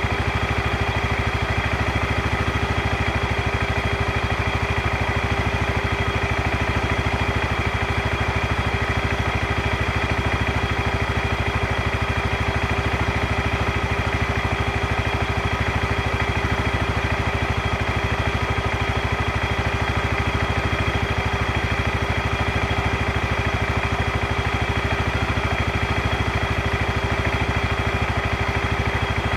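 ATV engine idling steadily, with an even, unchanging hum and no revving.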